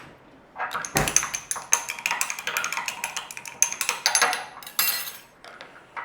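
A metal utensil clinking and scraping rapidly inside a spice container, stirring up paprika that has solidified at the bottom, with one knock about a second in.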